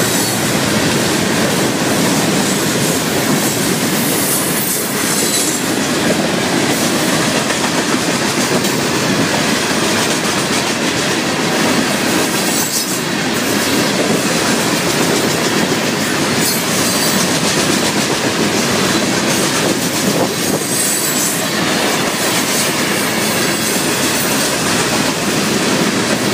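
Steel open-top hopper cars of a Florida East Coast Railway freight train rolling past close by: a loud, steady rumble and rattle of wheels on rail, with occasional clacks.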